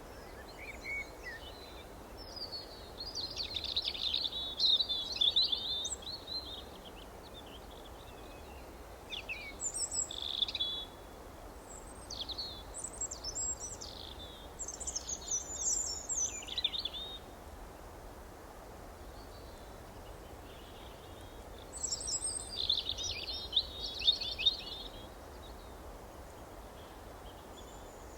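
Songbirds chirping and singing in quick, twittering phrases, in three spells with pauses of a few seconds between, over a steady faint background hiss.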